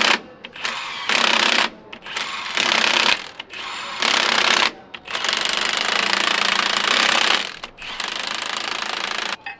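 Power tool run in repeated bursts: several short bursts of about half a second, then two longer runs of roughly two and a half and one and a half seconds.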